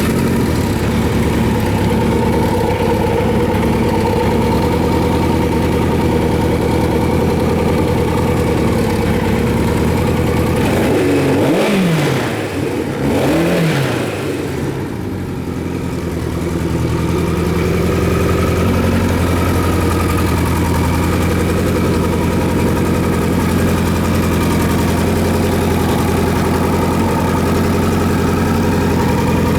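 Kawasaki Z1000J's air-cooled inline-four engine idling steadily just after a start on the electric starter, with two quick throttle blips about twelve seconds in before settling back to a steady idle.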